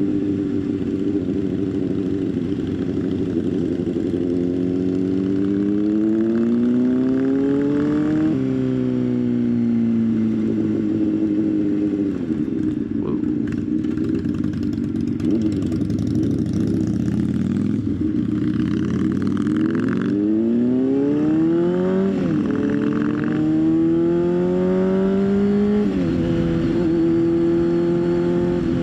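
Motorcycle engine under way, its pitch climbing as it accelerates and dropping sharply at gear changes about 8, 22 and 26 seconds in, with stretches of easing off in between. Wind and road noise run under it throughout.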